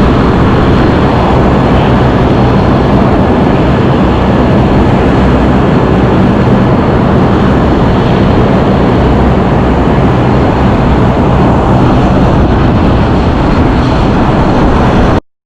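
Steady, loud drone of a Boeing 737 running on the ground, with a low, steady hum underneath; it cuts off suddenly near the end.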